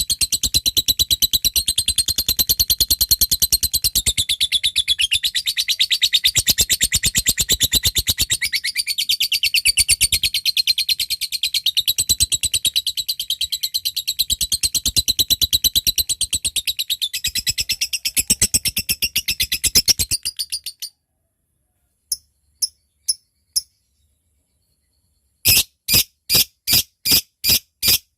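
A lovebird's long, very rapid, high-pitched chattering trill (ngekek) that runs for about twenty seconds and stops abruptly. After a short pause come four sharp ticking notes (ngetik), then, after another pause, a run of evenly spaced ticks at about three a second.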